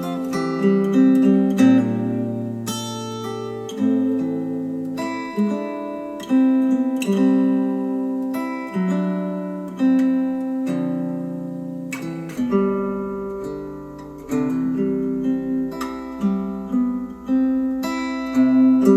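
Instrumental acoustic guitar music, plucked and strummed notes ringing out in changing chords, with no singing, played back through Polk Audio Reserve R200 bookshelf speakers.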